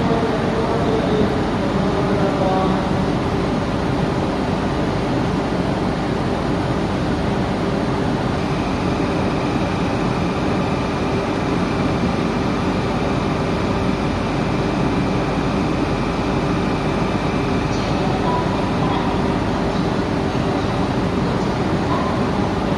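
Stationary E3-series Shinkansen train humming steadily at the platform, its on-board equipment running. A steady high tone sounds for about ten seconds in the middle.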